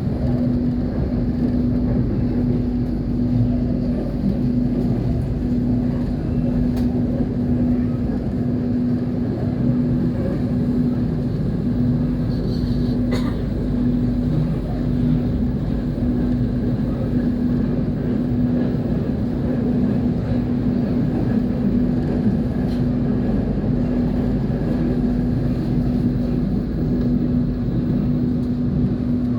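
Steady rumble of a moving train, with a constant hum running through it and a brief click about 13 seconds in.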